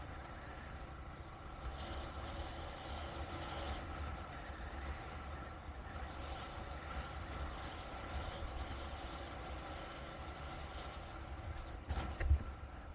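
Steady low rumble of a moving vehicle, with a short knock near the end.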